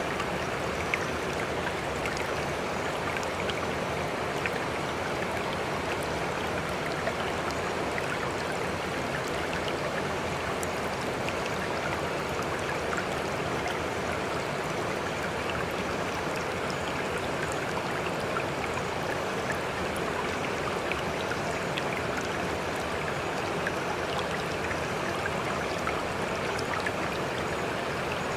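Small spring-fed waterfall: water splashing and flowing steadily, with tiny droplet splashes scattered through it.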